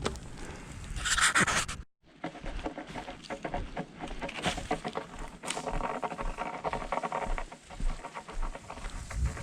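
Campfire crackling with dense, irregular small pops and clicks. About a second in there is a short rushing, rustling surge, followed by a brief dropout.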